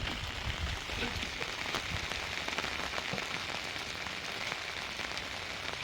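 Steady rain falling, with many individual drops pattering.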